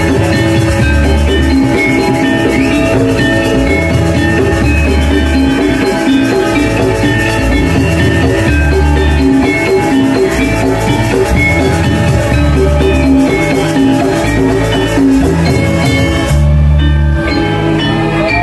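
Balinese gamelan music: ringing metallophones over drums, with a deep low stroke every couple of seconds. About sixteen seconds in, the bright upper ring suddenly drops away.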